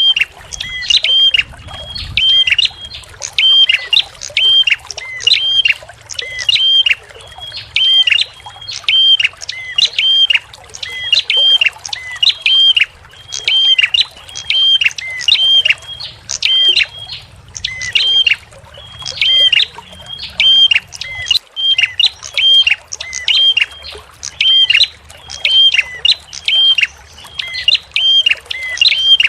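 A small songbird repeats one short, sharp, high call note over and over, about twice a second, with faint trickling water underneath.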